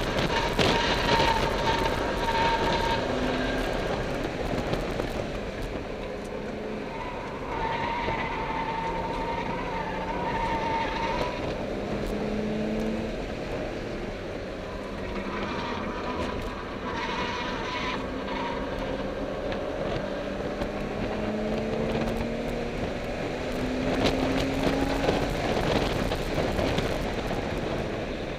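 Car engine under hard acceleration, heard from inside the cabin, its pitch climbing several times as it pulls through the gears. A high-pitched squeal comes and goes over it, with road and wind noise throughout.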